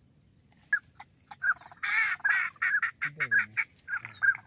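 Birds calling: a rapid run of short, high-pitched notes starting under a second in, with a louder, wavering call about two seconds in.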